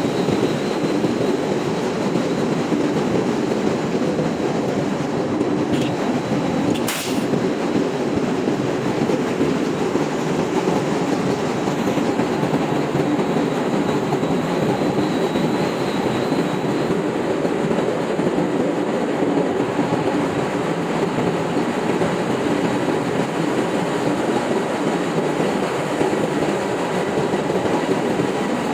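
Ship's engine room machinery running: a loud, steady mechanical din that holds unchanged throughout, with one sharp click about seven seconds in.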